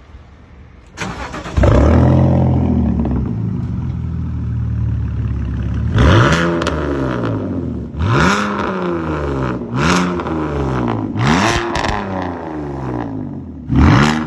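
BMW race car engine being started: the starter cranks briefly about a second in, the engine catches into a loud idle, then the throttle is blipped several times in quick revs, each rising and falling in pitch.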